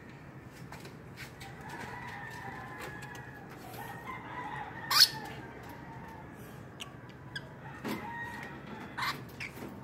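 Eye-ring lovebirds giving sharp, shrill chirps, the loudest about five seconds in and several more near the end. Under them, in the first few seconds, there is a longer drawn-out call.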